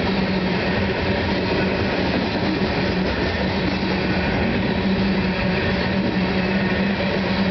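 Coal hopper cars of a CSX freight train rolling past: a steady, loud rumble of steel wheels on the rails, with a steady low hum.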